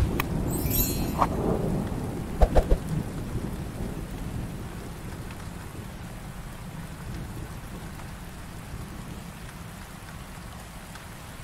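Steady rain falling, with thunder rumbling at the start and three short low thumps about two and a half seconds in; the rain then slowly fades.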